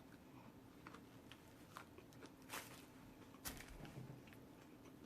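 Near silence broken by faint chewing of a rotisserie chicken sub sandwich: a few soft clicks and crunches, the clearest about two and a half and three and a half seconds in.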